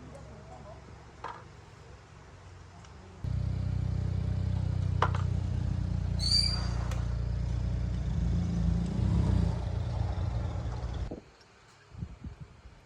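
A motor running steadily with a low hum. It starts abruptly about three seconds in and cuts off abruptly about eight seconds later, with a brief high squeal partway through.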